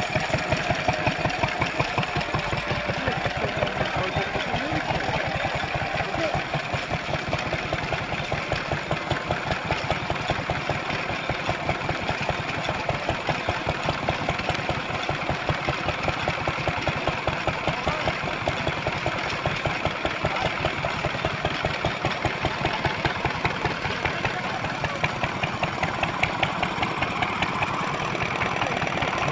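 Vintage stationary engines running, with a regular beat of a few strokes a second.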